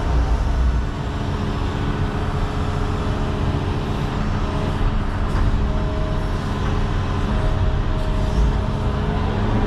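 John Deere 210 excavator's diesel engine running steadily under working load, with short higher tones coming and going now and then.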